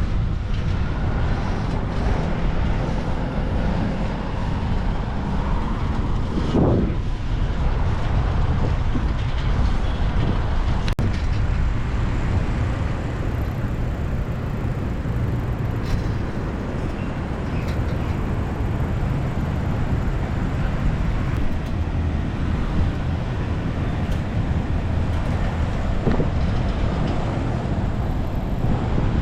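Passenger train running, a steady loud rumble of the carriage on the rails, with a short pitched sound about six and a half seconds in.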